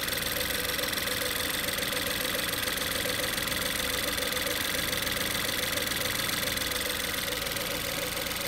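2014 Ford Kuga (Escape) engine idling, heard up close in the open engine bay: a steady, even running sound with a faint high whine over it.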